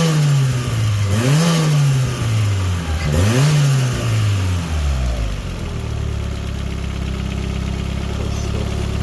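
Toyota Starlet turbo's 1.3-litre turbocharged four-cylinder being blipped on the throttle, revs rising and falling twice more, then settling to a steady idle about five seconds in. It is running after an exhaust manifold gasket repair, with the manifold no longer blowing.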